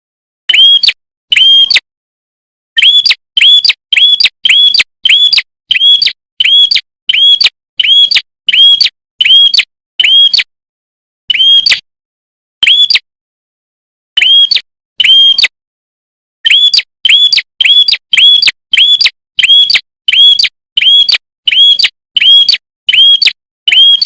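Red-headed prenjak, a small songbird, giving a long run of short, identical chirps at about two a second, each note rising and then falling in pitch, broken by a few brief pauses.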